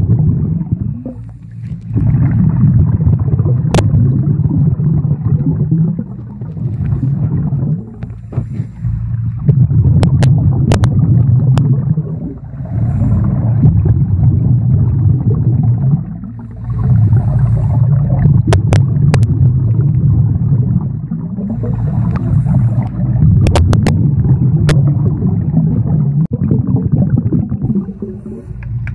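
Scuba breathing recorded underwater in a swimming pool: a loud, muffled low rumble of regulator breaths and bubbles. It swells and drops away every four to five seconds, with scattered sharp clicks.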